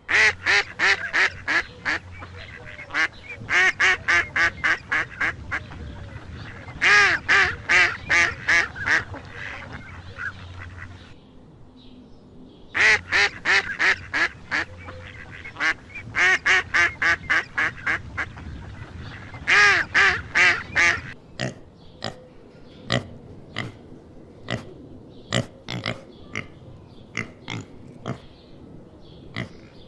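Ducks quacking in rapid runs of calls, about five a second, in repeated bouts of roughly two seconds. About two-thirds of the way in, the runs stop and only short scattered clicks and grunts follow.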